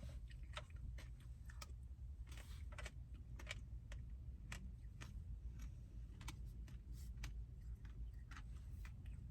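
Eating sounds close to the microphone: scattered soft clicks and taps, a few a second, over a steady low hum.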